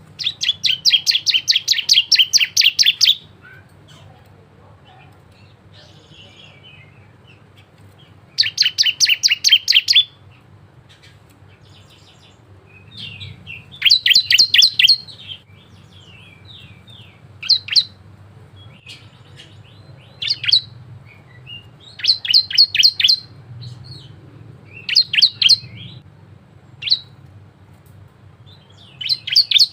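Bar-winged prinia (ciblek) singing: loud bursts of rapid, evenly repeated high chirps lasting a second or three each, broken by short pauses, single sharp notes and softer chatter.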